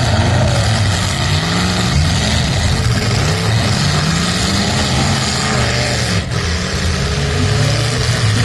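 Engines of several full-size demolition derby cars revving up and down at once, over a steady din of noise.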